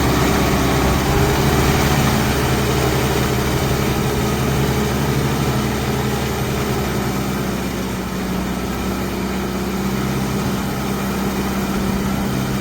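Kubota 50 hp 4x4 tractor's diesel engine running steadily.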